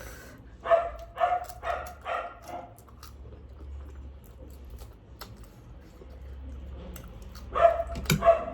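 A dog barking in short, quick barks: about five in a row in the first few seconds, then a few more near the end, over a low steady hum.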